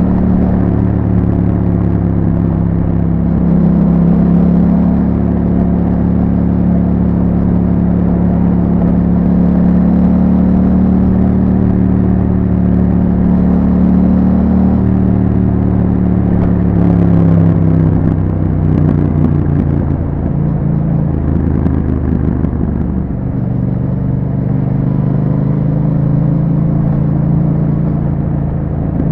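Yamaha MT-07's 689 cc parallel-twin engine through an Akrapovic exhaust with a dB killer, running at a steady pace while riding; about two-thirds of the way through the engine note drops and wavers before settling again.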